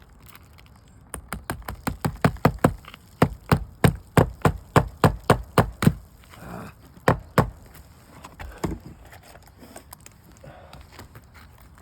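A rapid series of sharp tool strikes on asphalt roof shingles, about four a second for several seconds, then a few single knocks.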